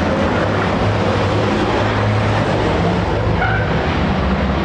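Racing trucks' turbo-diesel engines running on the circuit: a steady low drone.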